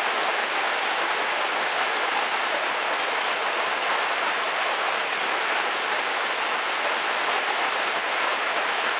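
Heavy rain falling steadily on a car roof, heard from inside the vehicle: an even wash of drops with a few sharper single drop hits.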